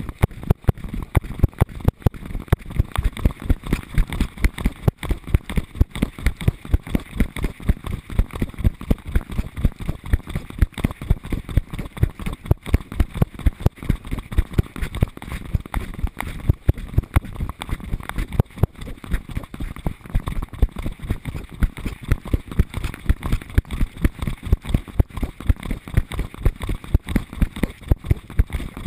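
A harness-mounted action camera jostling against a trotting dog's body: regular low thumps, about three a second, from the dog's stride.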